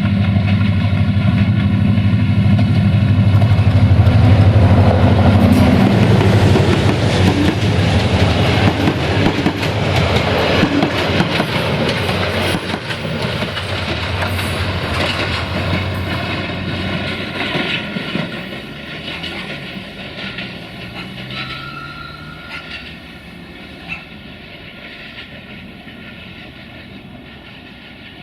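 A diesel locomotive hauling a passenger train passes close by. Its engine hum is loudest about four seconds in, then gives way to the rumble and clickety-clack of the carriage wheels over the rails, fading steadily as the train moves away.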